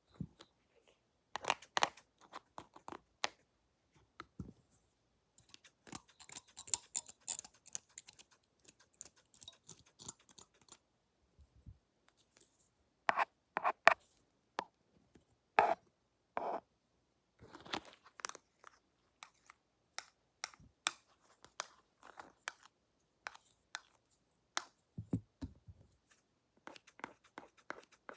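Close-up crackling, crunching and clicking as pretend barber tools and hands are handled right at the microphone. The sounds come in short clusters with pauses between them.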